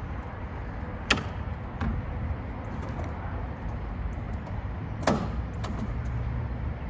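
The side door of a box truck's van body being worked: two sharp metallic clanks about four seconds apart, over a steady low rumble.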